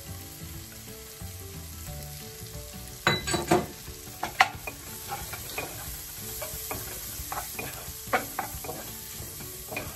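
Chopped onion and garlic sizzling in butter in a nonstick frying pan, stirred with a wooden spatula that scrapes and knocks against the pan. There are a few louder knocks around three to four and a half seconds in.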